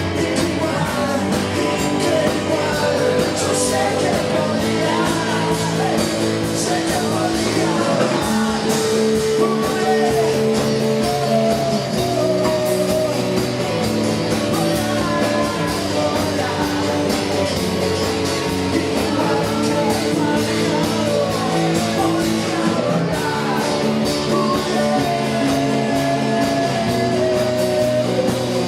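Live band playing a song: guitars and drums, with singing over them.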